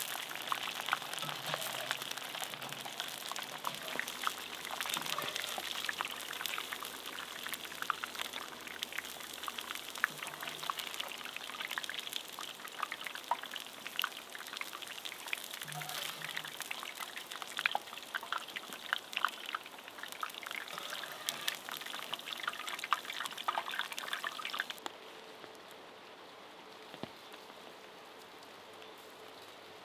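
Sweet potato fries frying in hot oil over a campfire: a steady sizzle dense with small pops and crackles. About 25 seconds in it drops to a quieter, even hiss.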